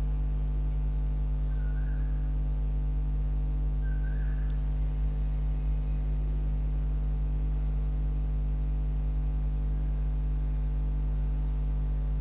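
Steady electrical mains hum, with three short high chirps in the first few seconds.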